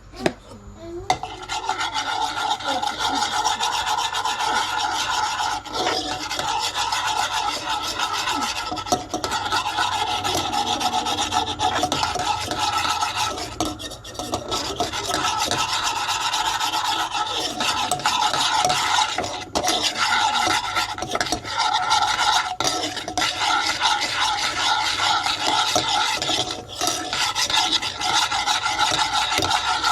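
A spoon stirring and scraping steadily around the bottom of a pan as the gravy base fries in the separated chicken fat and browns: a continuous rasping scrape with only brief pauses.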